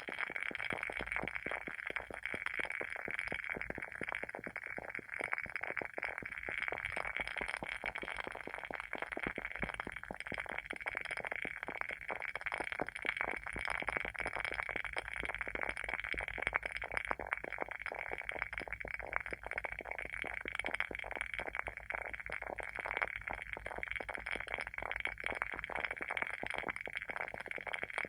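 WoodWick candle's wooden wick burning with a continuous, dense crackle of tiny pops, like a small bonfire.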